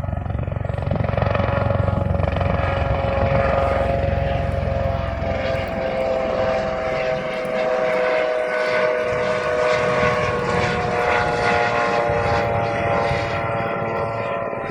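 Helicopter coming in to land: a loud steady engine whine over rotor noise. The low rumble drops away about halfway through, and the whine sinks slightly in pitch.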